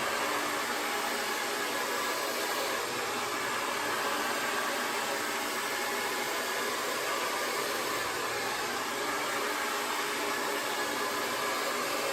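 Conair Testarossa 1875-watt AC-motor hair dryer running steadily, a constant rush of blown air.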